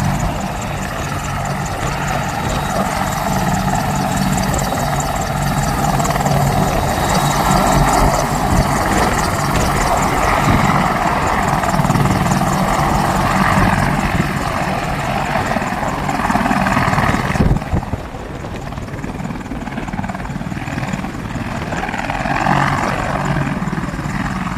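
AH-64 Apache attack helicopter's rotors and engines running steadily. About seventeen seconds in, the sound turns abruptly duller and a little quieter.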